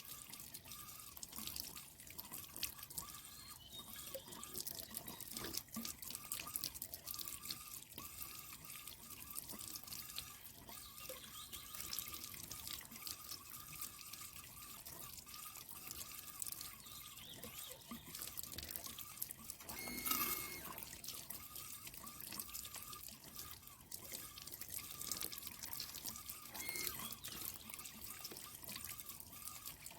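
Water trickling and dripping steadily, with a brief louder sound about twenty seconds in.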